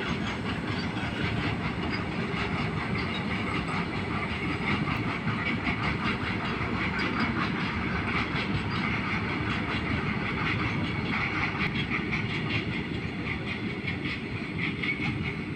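Train passing at speed: a steady rumble with rapid clatter of wheels over the rails, easing slightly near the end.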